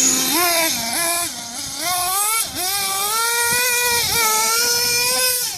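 Losi LST XXL RC monster truck's motor revving up and down in short blips, then climbing and holding a high, steady pitch for the last few seconds, over a hiss.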